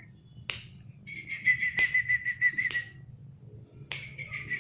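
A fluttering whistled trill at a steady high pitch, about eight pulses a second, lasting nearly two seconds, with a second trill starting near the end. Four sharp clicks are spread through it.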